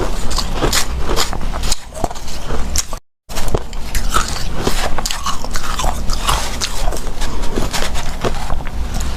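Close-up biting and chewing of powdery refrozen ice: a dense run of quick crunches. A brief total dropout about three seconds in breaks it.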